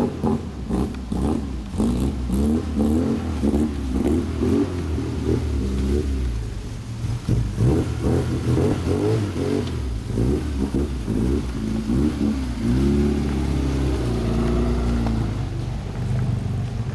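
Rover Mini Cooper 1.3's A-series four-cylinder engine running as the car is driven slowly, its revs rising and falling repeatedly.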